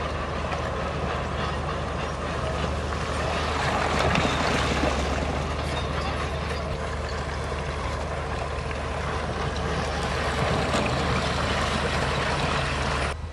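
Heavy diesel engine of a bulldozer at work, running steadily with a low hum and a few scattered knocks, cutting off abruptly near the end.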